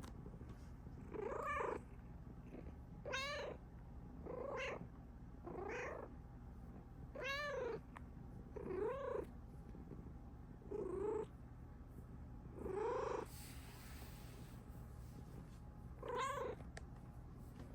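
Bengal cat giving a string of nine short meows, each rising and then falling in pitch, a second or two apart, over a steady low purr. These are contented, happy calls.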